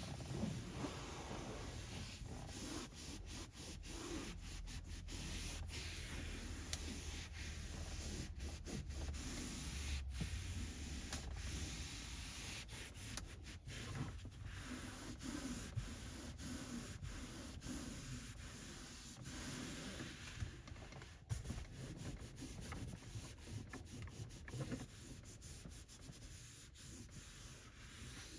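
Microfiber cloth wiping and rubbing over car interior surfaces: continuous scrubbing strokes with many small clicks and taps.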